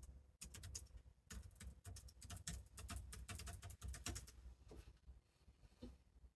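Faint, quick irregular clicking of typing on a computer keyboard, in rapid runs for the first few seconds, then a few scattered keystrokes.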